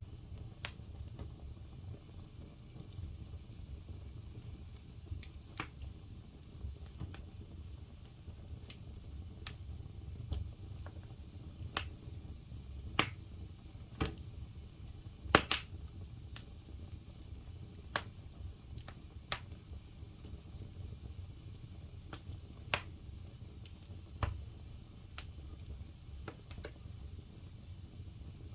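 Wood fire crackling in a fireplace: irregular sharp pops and snaps a second or two apart over a low steady rumble of the flames, the loudest pop about halfway through.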